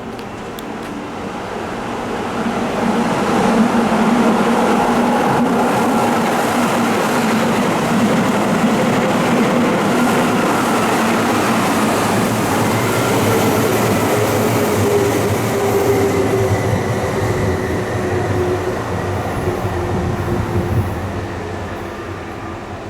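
Keihan electric train running through the station. The noise swells over the first few seconds, holds loud and steady with a hum of several steady tones from the drive, then fades near the end.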